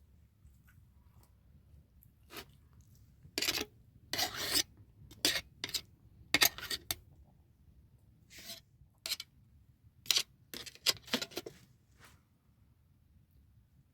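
An irregular series of short scraping strokes, about fifteen, each lasting up to half a second. They begin about two seconds in and stop about twelve seconds in.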